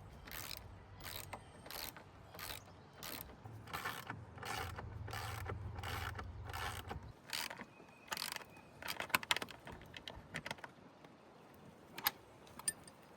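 Repeated mechanical clicks, about two a second, over a low steady hum that stops about seven seconds in. A quicker run of clicks follows around the nine-second mark.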